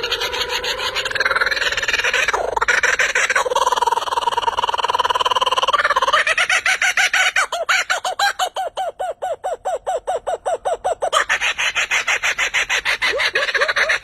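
Chickens calling: a long, drawn-out note for the first few seconds, then a fast run of short clucks, about four a second.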